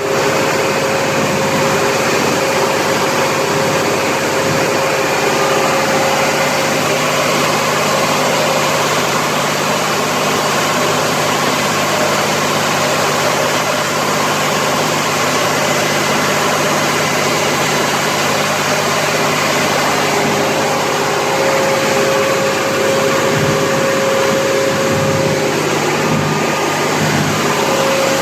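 Kohler 230REOZ71 230 kW diesel generator set running steadily at its constant governed speed.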